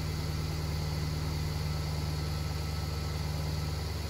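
Mercedes-Benz CLA (W117) engine idling steadily, running again after its post-crash engine start lock was cleared.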